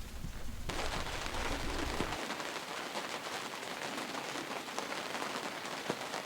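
Rain falling as an even hiss of many small drop ticks, starting abruptly about a second in.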